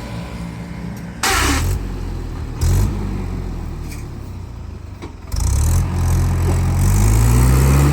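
Tractor diesel engine running, then revving up about five seconds in, its pitch climbing. Two short loud bursts of noise cut in about one and three seconds in.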